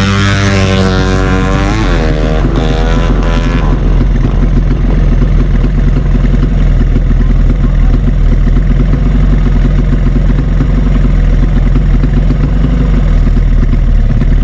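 Drag-racing motorcycle engine at high revs, its pitch climbing and dropping over the first few seconds as it shifts, then giving way to loud steady noise with a low rumble.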